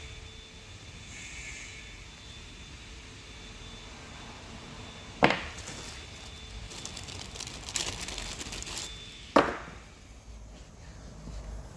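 Two sharp knocks, about four seconds apart, with lighter clicking and clattering of tools between them, as a gearbox's drive shaft seal seat is worked on.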